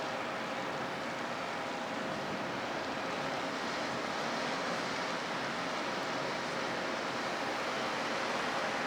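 Steady harbour ambience: an even rushing noise with a faint steady hum, unchanging throughout.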